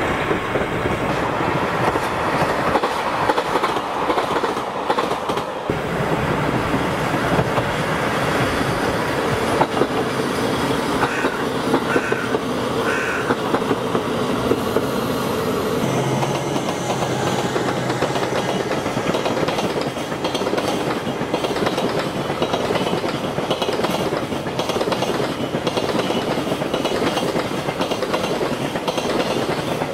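Trains passing on the line: a steady rumble with the clickety-clack of steel wheels over rail joints, first a passenger train and later a long freight train of container wagons rolling by.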